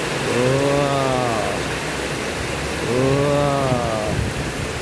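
Heavy rain pouring steadily, with a low, pitched mooing call repeated about every two and a half seconds. Each call swells and falls in pitch over about a second.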